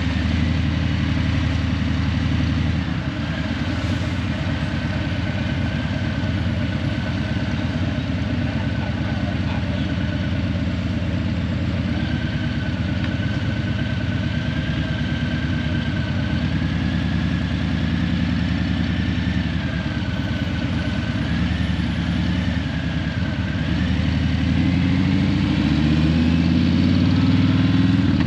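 Harley-Davidson Breakout 117's Milwaukee-Eight 117 V-twin through Vance & Hines Eliminator 300 slip-on mufflers, running steadily at low revs. Near the end the revs climb as it accelerates.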